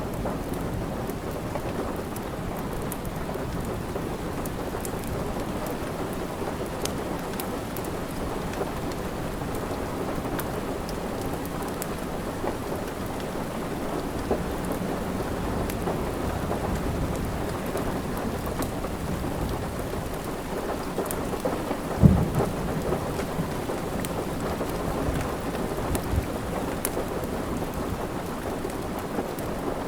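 Steady rain with a low rumble beneath, and a wood fire crackling in small sharp pops. One louder, deep thump comes about two-thirds of the way through.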